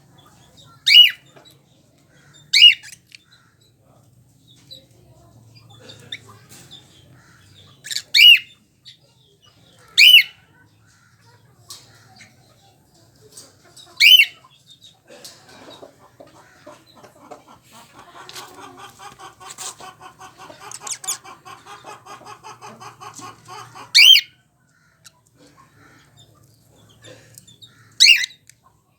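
Caged birds calling: seven loud, short, shrill calls at intervals, and from about halfway through a long, rapid, buzzy chatter lasting some nine seconds.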